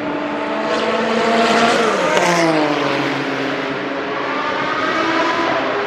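Group C prototype race car engine at speed, its pitch falling sharply about two seconds in as the car passes, then rising again as it accelerates.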